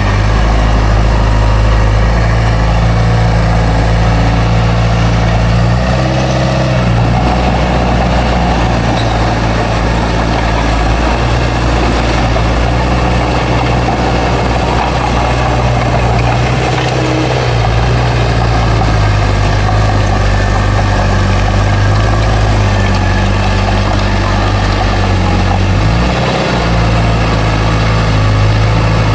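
Heavy diesel engine of a bulldozer working steadily, its pitch shifting briefly three times as the load changes.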